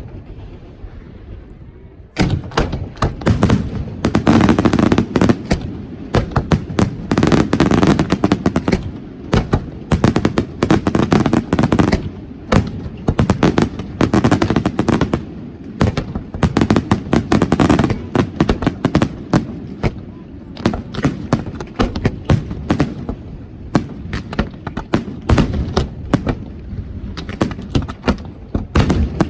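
Fireworks display: after a lull, a dense barrage of rapid bangs and crackling starts about two seconds in and keeps going without a break.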